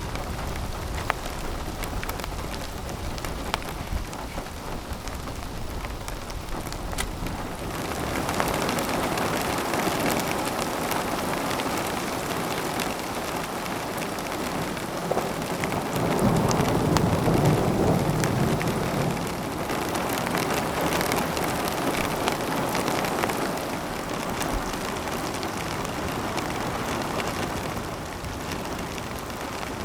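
Rain falling steadily, with single drops ticking, growing heavier about eight seconds in. A low rumble of thunder swells a little past the middle and then fades back into the rain.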